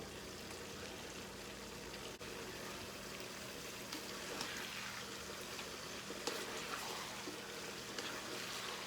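Chicken and tomatoes cooking in a covered karahi pot: a faint, steady sizzle and bubble with a few soft ticks.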